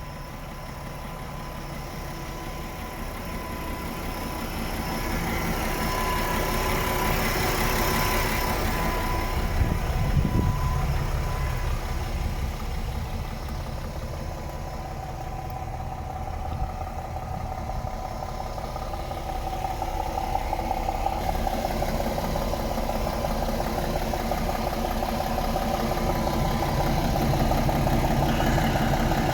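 DAF XF 480 truck's PACCAR MX-13 six-cylinder diesel engine running steadily, growing louder and easing off twice.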